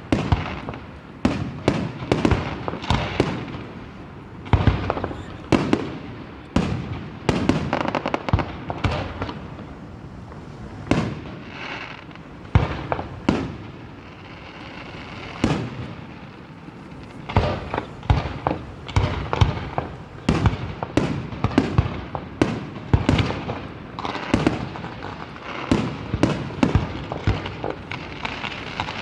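Fireworks display: aerial shells going off in quick succession, a continuous run of sharp bangs, several a second at times.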